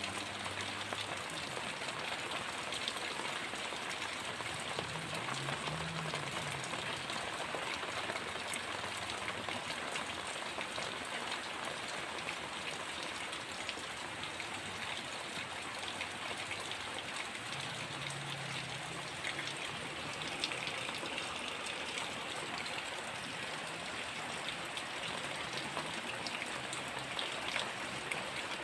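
Heavy rain falling steadily, a dense hiss with scattered drop ticks, and a faint low rumble twice.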